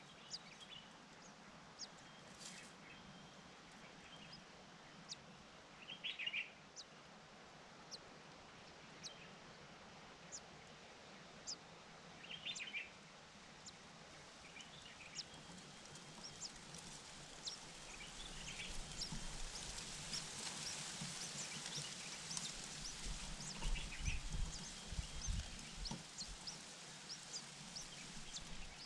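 Wild birds calling: thin, high single chirps every second or so, with a short burst of rapid chirps about every six seconds, over a steady outdoor background hiss that grows louder about two-thirds of the way through. A few low rumbling bumps near the end are the loudest sounds.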